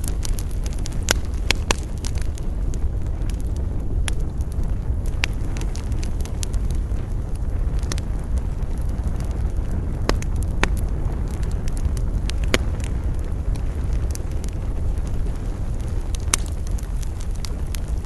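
Wood campfire crackling, with sharp irregular pops every second or so over a steady low rumble of wind.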